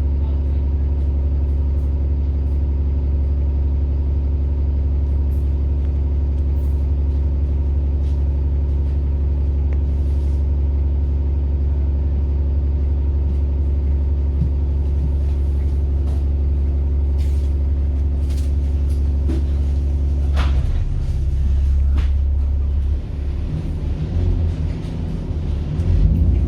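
Bus diesel engine idling steadily, with a strong low hum. About twenty seconds in a sharp click or air release sounds, and the engine note then shifts and grows uneven as the bus starts to move off near the end.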